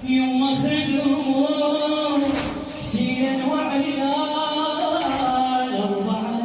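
Male voices chanting a slow Shia mourning lament for Husayn, with long held notes.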